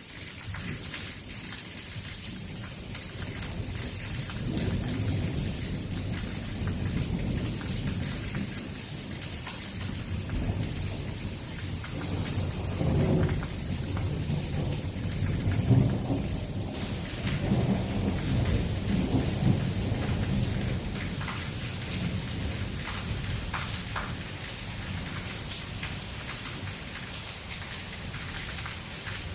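Heavy thunderstorm: steady heavy rain with long, low rolling thunder that builds a few seconds in, is loudest around the middle, and dies away about two-thirds of the way through.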